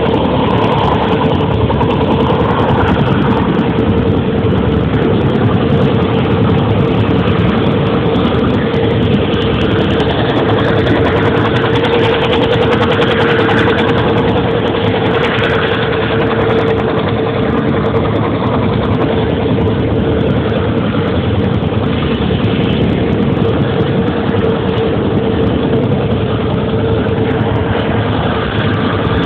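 A helicopter running: loud, steady engine and rotor noise with a constant mid-pitched whine.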